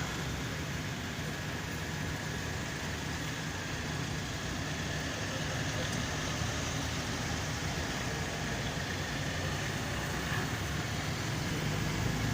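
A motor vehicle engine running steadily at idle, with a low, even rumble and street noise.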